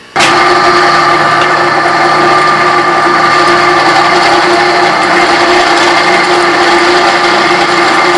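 Drill press motor switched on just after the start and running steadily with a steady hum, boring a pilot hole in a metal fitting.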